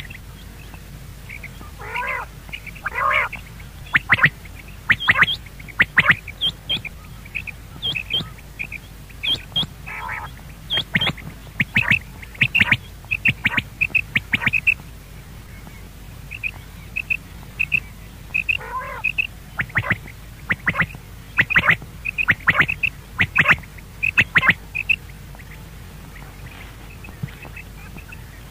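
Bird calls: short, high notes repeated in quick runs, in bouts with short pauses, with a few lower, falling notes mixed in. The calling stops a few seconds before the end.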